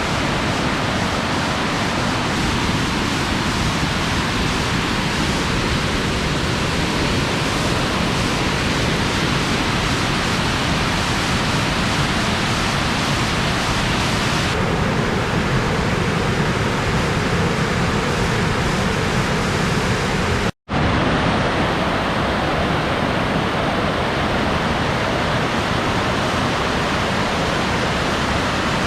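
Loud, steady rush of falling water, an even roar with no break in it. The tone shifts slightly about halfway through, and the sound cuts out for a split second about two-thirds of the way in.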